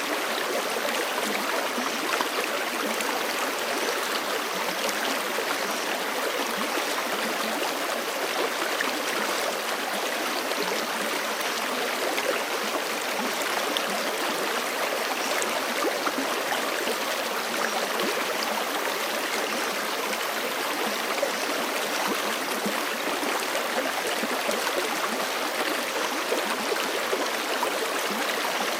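A forest creek flowing steadily over rocks: an even rush of water with no breaks.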